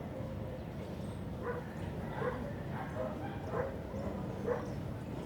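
A dog barking: about five short barks spaced under a second apart, over a steady background noise.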